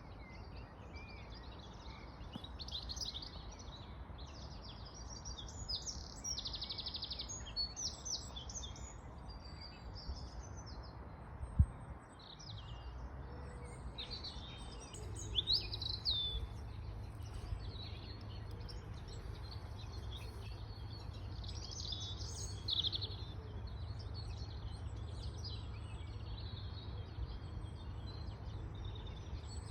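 Several songbirds singing outdoors in spring, a dense run of chirps, trills and short phrases, over a low steady rumble. A single sharp knock about twelve seconds in is the loudest sound.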